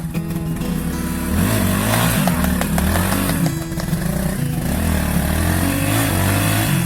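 Motorcycle engine running, its revs rising and falling.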